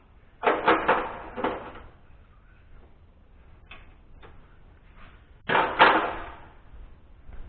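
Knocks and clatter in two short bursts, the first about half a second in and the second about five and a half seconds in, with a few faint single clicks between them.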